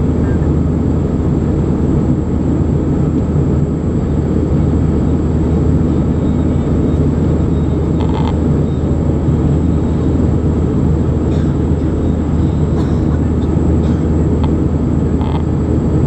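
Airbus A320 cabin noise in flight: a steady, loud rumble of the jet engines and airflow, with a thin, faint, steady high whine above it.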